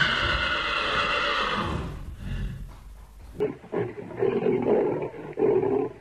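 Horse whinnying loudly, one long call that fades out after about two seconds. About three and a half seconds in, a different sound takes over: a run of short, low, rough animal calls.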